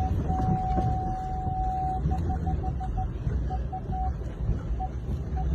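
A single electronic beep tone, held for about two seconds, then broken into a quick run of short beeps and a few scattered ones, over a low rumble.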